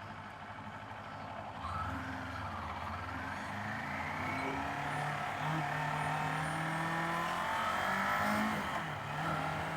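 Kawasaki Z500 parallel-twin engine accelerating on the road. It gets louder about two seconds in, and its note rises and then drops back in steps, like changes up through the gears.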